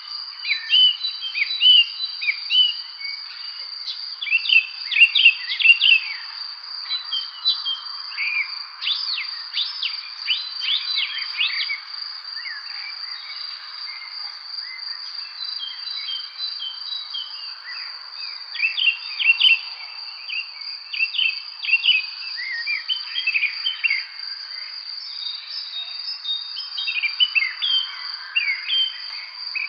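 Evening spring birdsong: many birds giving quick chirps and short rapid trills over a steady high insect drone, like crickets, that holds throughout. The chirping thins out in the middle and picks up again toward the end.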